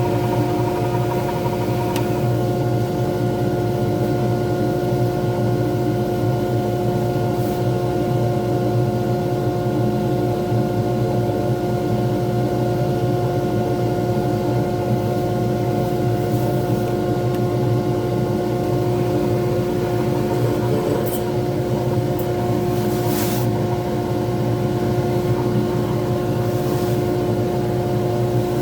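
Pen-turning lathe running at a steady speed: a constant motor hum with a few faint clicks.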